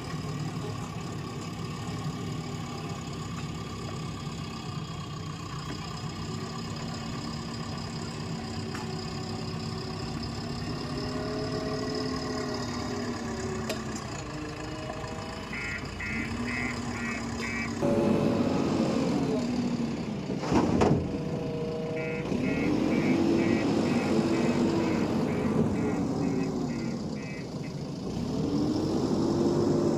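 Backhoe loader's diesel engine running and revving up and down as it works, louder a little past halfway. A rapid high beeping sounds in two spells, and a single sharp knock comes near the middle.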